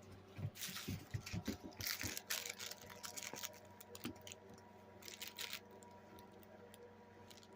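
Faint scuffling and scattered light clicks of a dog's paws and claws moving about on the floor, dying away in the last couple of seconds.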